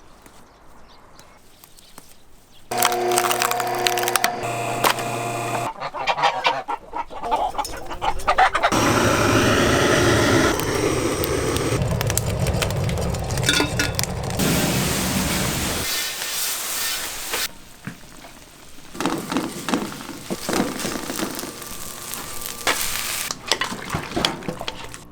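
A flock of farmyard poultry calling. It starts loud about three seconds in and continues for over ten seconds, then comes in quieter, broken bursts.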